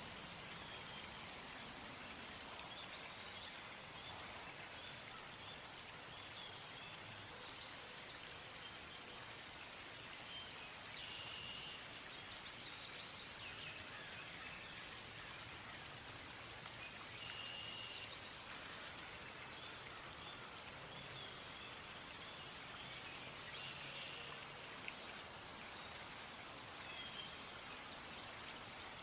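Steady outdoor background hiss with scattered short bird chirps and trills now and then.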